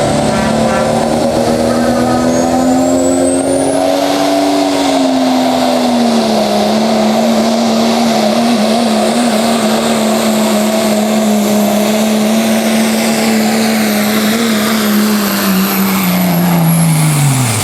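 Turbo diesel pickup engine at full throttle pulling a sled, with a high turbocharger whistle over the engine note. The engine note climbs slightly early on, holds fairly steady, then falls off near the end as the load drags the engine down.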